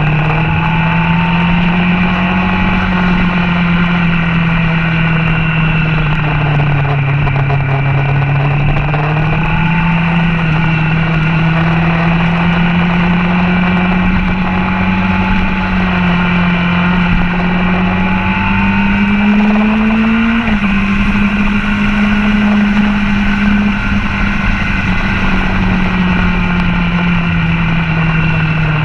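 Motorcycle engine running hard, heard from a camera mounted on the bike, its pitch rising and falling as the rider works the throttle, with a gear change about two-thirds of the way in. Wind rumble on the microphone runs underneath.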